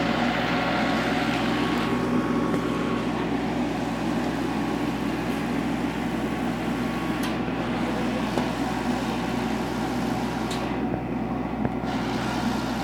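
A vehicle engine running steadily at a constant pitch, with a couple of light clicks in the second half.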